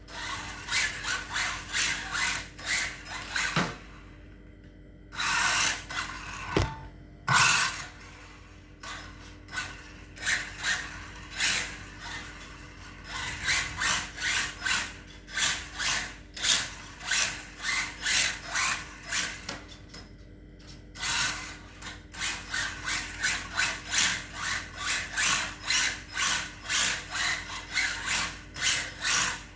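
Hard tyres of a ZD Racing Rocket S16 brushless RC drift car sliding and scraping across a smooth floor, in a quick run of short scrapes, about two a second, broken by a few brief pauses.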